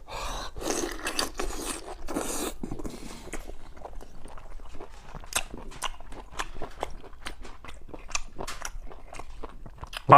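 Close-up eating sounds of a man chewing sea snail meat: wet chewing and crunching broken by many sharp clicks and scrapes.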